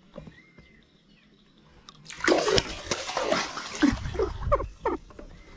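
Water splashing and sloshing for about three seconds, starting about two seconds in. It begins loudly and breaks up into separate splats. Faint bird chirps come before it.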